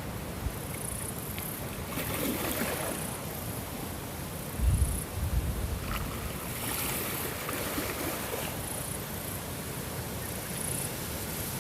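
Ocean water and wind, a steady rushing noise with a brief low rumble about halfway through.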